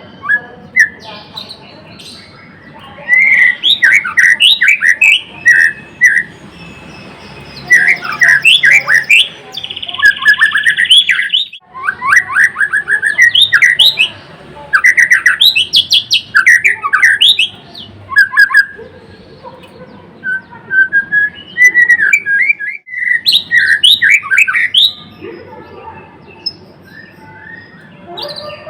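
White-rumped shama (murai batu, piebald 'blorok' form) singing loudly and constantly in rapid phrases of quick whistles and chirps, with short pauses between phrases and one held high note about ten seconds in.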